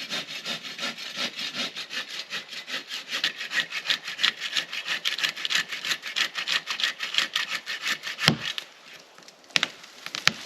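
Hand saw cutting through dead birch wood in quick, even back-and-forth strokes. The sawing stops about eight seconds in with a single sharp crack, and a couple of light knocks follow near the end.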